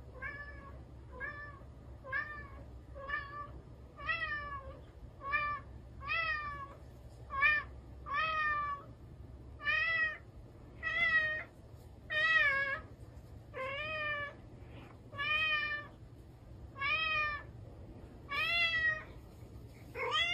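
Domestic cat meowing over and over with a fuzzy plush toy in its mouth, about one call a second. Each call rises and falls in pitch, and the calls grow louder after the first few seconds.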